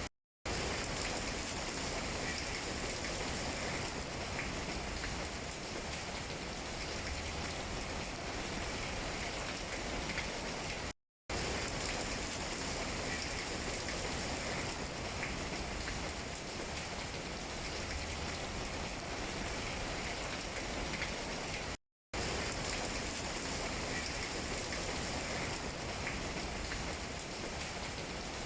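Steady rain pattering on tree leaves, an even hiss of many drops. The sound cuts out completely for a split second three times, about eleven seconds apart.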